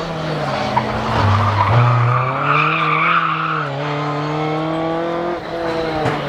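Rally car engine running hard, its revs rising and falling repeatedly.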